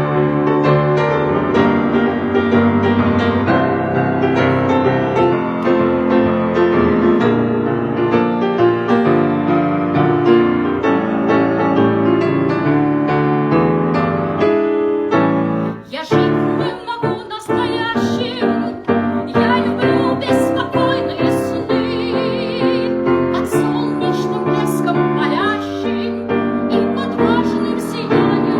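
Piano music, a dense run of sustained notes. A little past halfway it dips briefly, then goes on more sparsely with a few sharp clicks among the notes.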